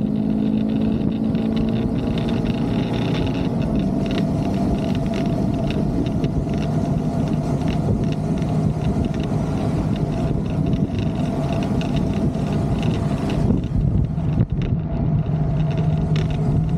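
Motorcycle engine running steadily at road speed, with wind rushing over the microphone. The engine note eases briefly about fourteen seconds in, then picks up again.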